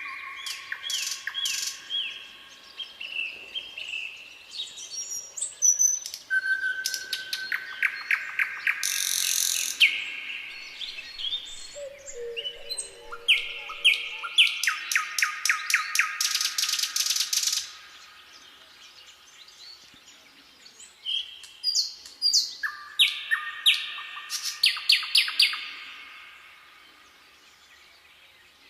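Wild birds singing: quick trills of repeated chirps and clear whistled notes, coming in loud bursts with a quieter lull about two-thirds of the way through.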